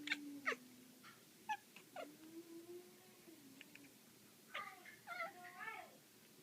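Black cat making funny sounds while chasing a laser pointer: a low drawn-out call, then several short chirps that sweep downward, another low call, and a higher wavering call near the end.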